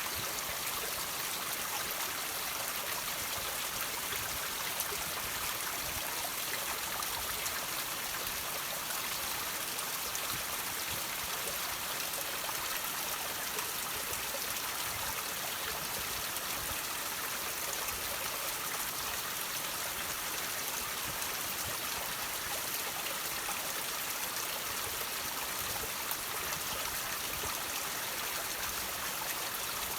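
Water trickling and dripping over rocks: a steady, even splashing hiss with many small drops.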